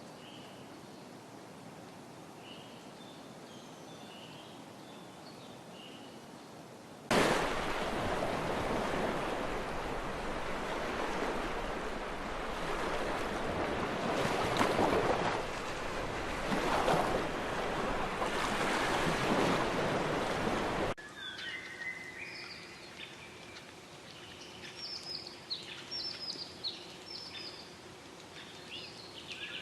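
Faint bird chirps over a hiss, then, cut in suddenly about seven seconds in, a loud rushing noise like running water or surf that swells and eases and stops just as suddenly. After it, many birds chirp and call over a low steady hum.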